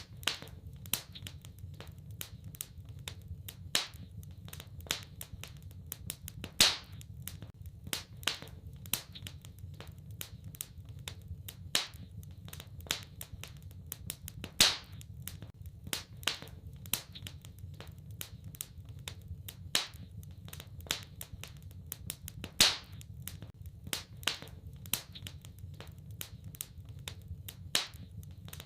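Wood fire crackling in a fireplace: a steady run of small crackles, with louder sharp pops every few seconds, over a steady low rumble.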